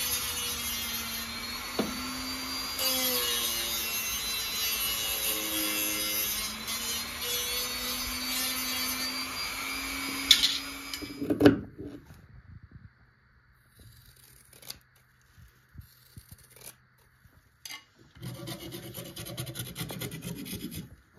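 Small power tool running and abrading, its motor pitch wavering under load, then stopping with a sharp knock about eleven seconds in. A few light taps follow, and near the end a few seconds of rasping, rubbing strokes.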